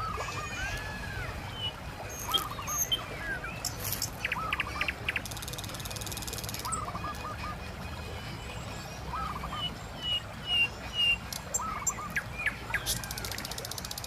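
A bird calling in short runs of four or five quick notes, repeated every two to three seconds, with smaller birds chirping higher up. A steady low rush from the river runs underneath.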